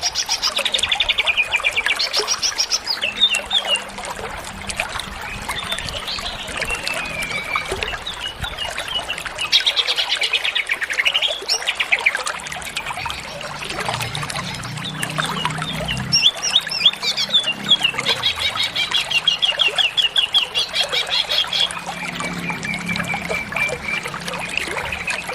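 Cucak ijo (greater green leafbird) singing nonstop, a varied song full of mimicked fills: fast trills and rapid runs of repeated notes that jump and slide in pitch. A steady hiss runs underneath.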